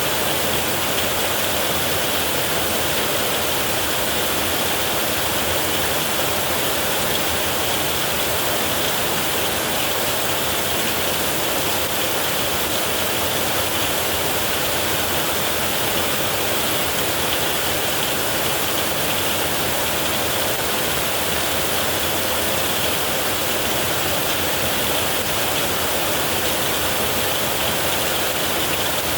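Heavy rain falling steadily, a dense even hiss with no rise or fall.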